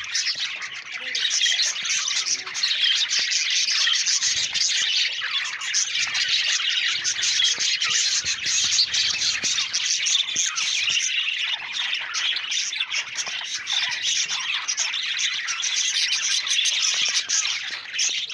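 Budgerigars chirping and warbling together: a steady, dense chatter of many short, overlapping high calls that never pauses.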